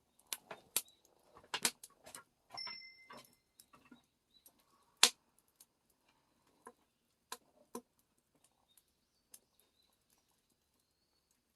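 Scattered sharp clicks and light taps, with one louder snap about five seconds in. A brief high whistle sounds at about two and a half seconds.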